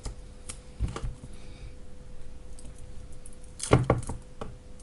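Handling noise from an e-bike battery pack and its hard plastic case: scattered clicks and knocks, with a louder cluster of knocks about three and a half seconds in, over a faint steady hum.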